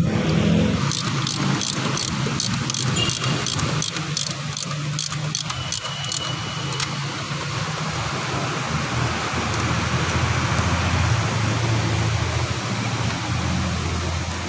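Car engine running steadily. Over the first several seconds a run of sharp clicks comes at about three a second.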